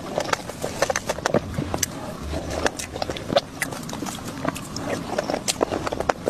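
Close-miked chewing of soft, creamy layered cake, full of wet mouth clicks and lip smacks coming irregularly several times a second.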